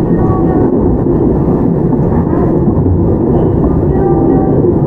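Onboard running sound of a Toyama Chiho Railway 17480-series electric train under way: a steady rumble of wheels on rail and traction-motor and gear noise. Faint short whines come in shortly after the start and again near the end.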